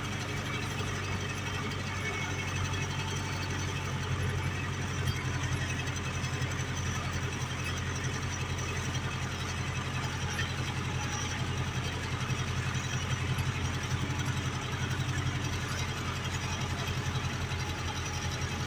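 Ursus 385 tractor's four-cylinder diesel engine running steadily while pulling a plough.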